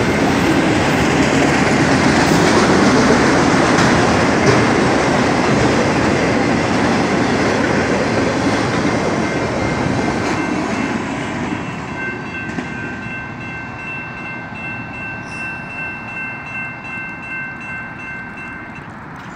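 Freight cars of a BNSF autorack train rolling past with loud wheel clatter; the last car passes about halfway through, and the train noise then fades as it moves away. Once the train has faded, a grade-crossing warning bell is heard ringing, and it stops near the end.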